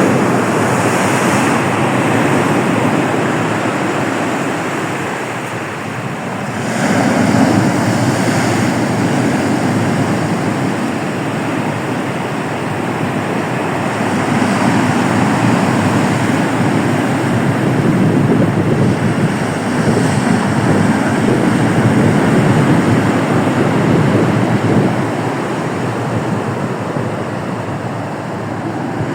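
Black Sea surf, waves breaking and washing up the shore in a continuous rush that swells and eases as each wave comes in. It is loudest from about seven seconds in.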